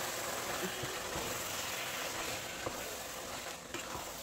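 Sorrel leaves and smoked fish sizzling in hot oil in a pot, stirred with a wooden spoon, with a couple of faint knocks from the spoon.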